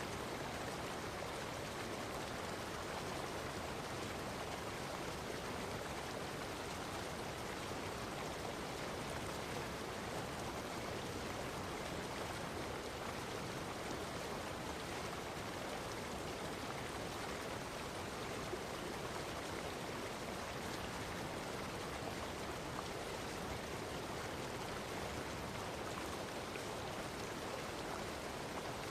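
Running water of a stream, a steady rushing and splashing flow with no pauses or changes.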